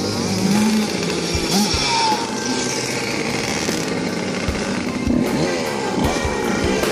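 Dirt bike engine running and revving, its pitch rising and falling several times, with the sharpest climbs about half a second in and again from about five seconds in.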